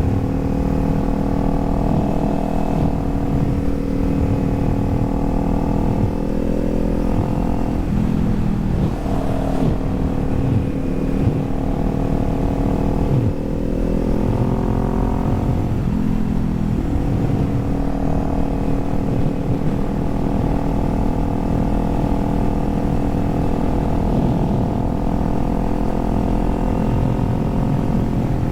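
Kawasaki Z400's parallel-twin engine running under way. Its note dips and climbs again several times, around 3, 8 and 13–16 seconds in, as the throttle and revs change.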